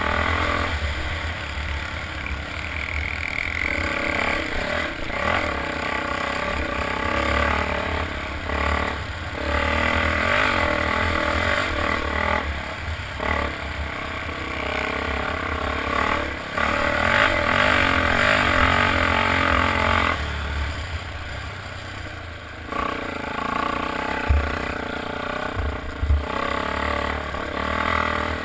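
Motocross motorcycles' engines revving, the sound rising and falling as the bikes accelerate and pass, with a couple of sharp knocks near the end.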